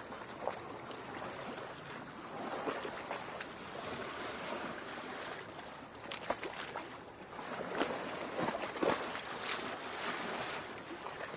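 Lake water lapping and gurgling against the shore rocks: a steady wash broken by many small splashes and drips, with a few louder splashes about eight to nine seconds in.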